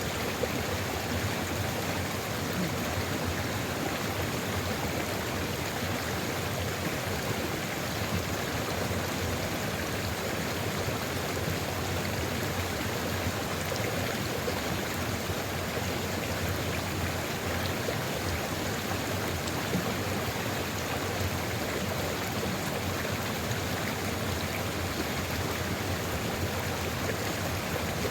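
Sulfur river flowing steadily: an even, continuous sound of running water with no pauses or separate splashes.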